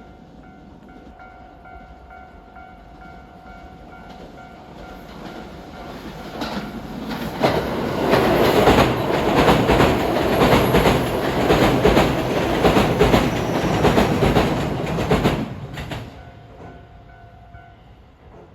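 A train passing close by, its wheels clacking rhythmically over the rail joints. It grows louder from about four seconds in, is loud for about eight seconds, then drops off suddenly.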